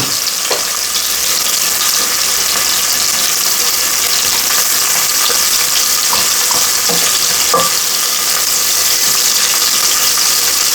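Chicken searing in hot olive oil, a steady sizzle, with a few faint knocks of a utensil in the pan.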